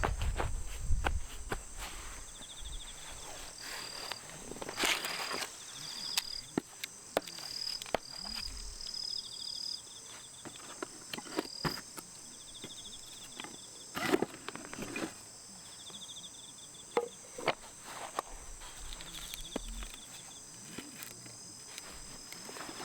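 Bell crickets singing in repeated short trills over a steady high chorus of other insects, with scattered knocks and rustles of handling near the microphone.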